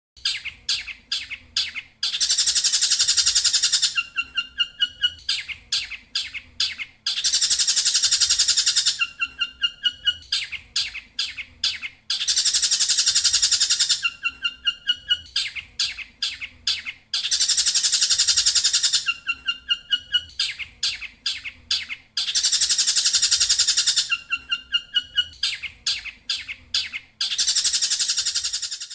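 Looped bird-song training recording of tengkek buto and canary: runs of sharp chip notes, a dense high buzzing trill about two seconds long, and short rising whistles, the same phrase repeating about every five seconds.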